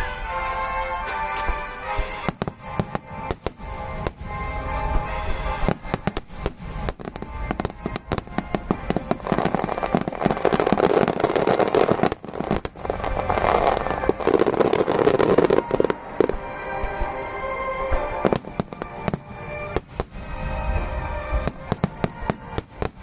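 Fireworks display: aerial shells bursting in quick succession, with a dense crackling stretch from about nine to sixteen seconds in, while music plays.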